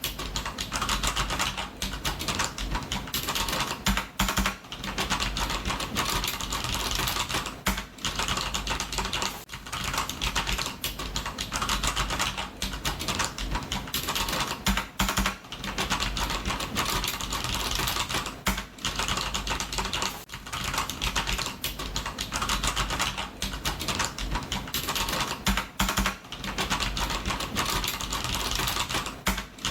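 Computer keyboard being typed on fast and continuously, a dense run of key clicks broken by brief pauses every second or two.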